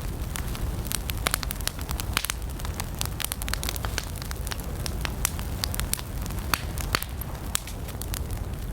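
Wood fire burning, with frequent sharp crackles and pops of varying loudness over a steady low rumble of the flames.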